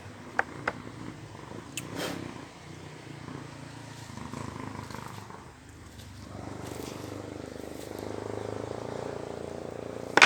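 Small two-stroke chainsaw idling after the throttle is released, a steady low running sound, with a few light clicks in the first two seconds and one sharp knock at the very end.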